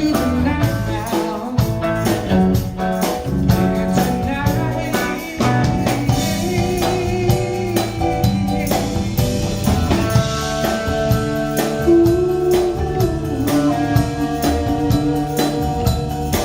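Band music with guitar and drum kit playing a steady beat.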